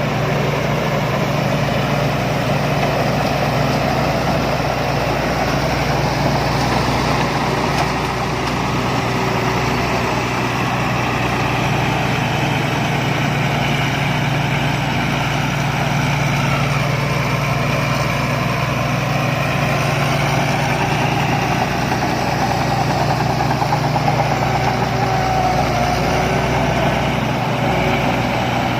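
Rice combine harvester's diesel engine and machinery running steadily, a constant heavy drone with a noisy mechanical clatter over it.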